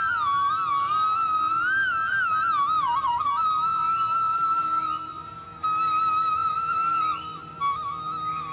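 Background music: a flute-like melody, ornamented at first and then in long held notes.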